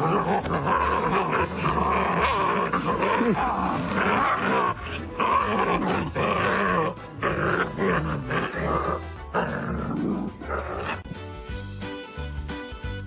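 A dog growling and grumbling loudly over background music; the dog stops about eleven seconds in, leaving only the music.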